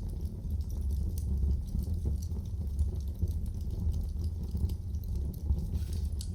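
Wood fire in a fireplace crackling, with scattered sharp snaps and pops over a steady low rushing sound from the flames.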